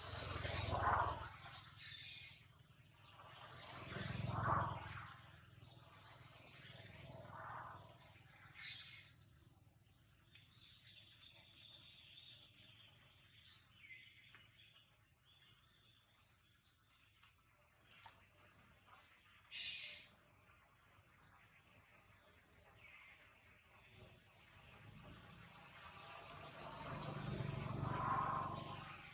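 Birds chirping: many short, high chirps scattered through the outdoor background. A few louder, longer swells of noise rise and fall near the start, around four seconds in and near the end.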